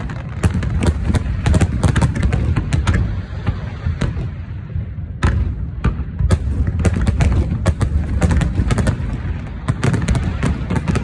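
Fireworks going off: a dense run of crackling pops and bangs over a continuous low rumble of booms.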